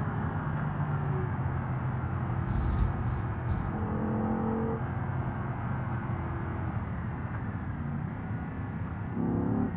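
Porsche Cayenne Turbo S's twin-turbo V8 and tyre/road noise heard from inside the cabin while driving, a steady low drone. A few short sharp clicks or knocks come about two and a half to three and a half seconds in, and a brief louder engine note rises just before the end.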